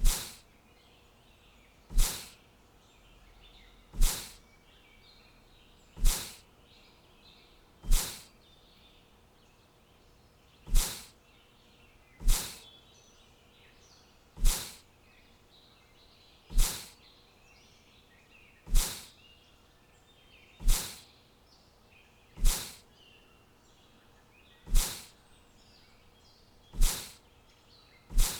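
Sharp, loud taps, each fading out quickly, repeating roughly every two seconds, with faint bird chirping in between.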